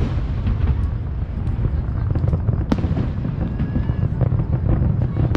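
Fireworks going off: a continuous rumble of many bangs, with one sharp crack about halfway through.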